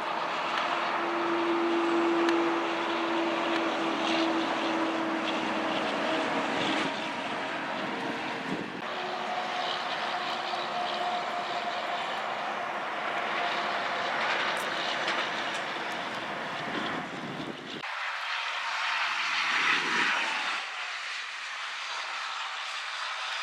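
Heavy trucks passing on a road: engine drone and tyre noise with steady whining tones. The sound changes abruptly a few times, and the deep rumble drops away for the last few seconds.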